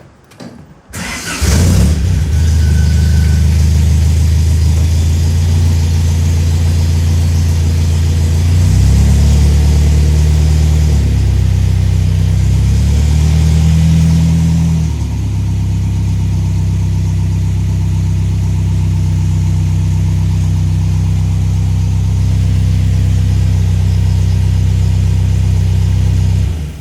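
MG MGA's four-cylinder engine cold-starting: it catches after a brief crank and runs at a fast cold idle. The pitch shifts and rises briefly near the middle, then settles to a lower idle, and the engine cuts off suddenly at the end.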